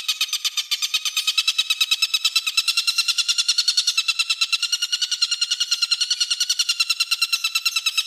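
A songbird's rapid trill for masteran training: one harsh note repeated about ten times a second without a break, its pitch holding nearly steady with a slight waver. This is the rapid-fire 'nembak' (shooting) style of call.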